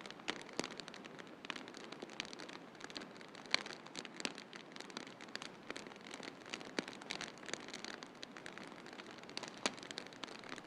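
Wood fire crackling in a fireplace: irregular sharp pops and snaps over a steady soft hiss, with the loudest pop about three and a half seconds in.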